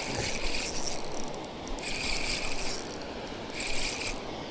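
A fishing reel's drag ratchets as a hooked pike pulls line off against it, in three surges of about half a second each.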